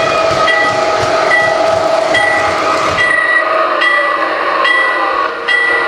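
Toy train running, with a steady mechanical running noise and a high electronic bell ding repeating a little faster than once a second.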